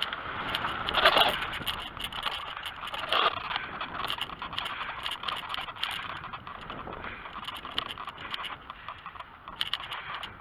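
A bicycle being ridden over rough ground: steady tyre and rolling noise with frequent small rattles and clicks from the bike.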